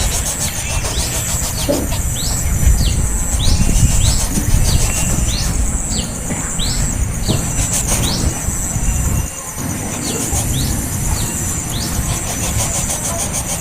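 A small bird calling in short, sharp high notes, two or three a second, with a pause of a couple of seconds partway through. Under it runs a steady high hiss and a low rumble.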